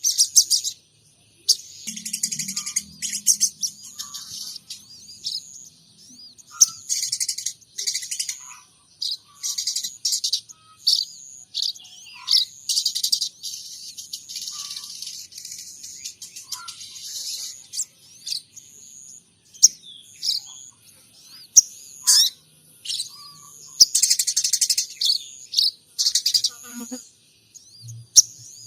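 Sogon trotol songbird singing in rapid bursts of high chirps and twitters with short pauses between phrases. Its song is made up of mimicked calls of munias and tree sparrows.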